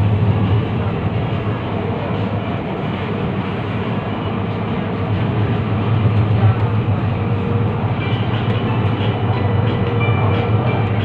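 Kuala Lumpur MRT train running between stations, heard from inside the carriage: a steady low rumble of wheels on rail and drive. In the last few seconds come faint clicks and a high tone.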